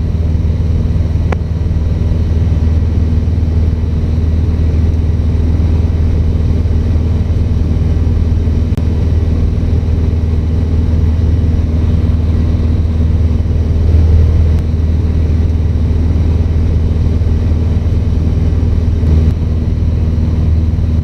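Cessna 150's four-cylinder Continental O-200 engine and propeller droning steadily in cruise flight, heard from inside the cabin.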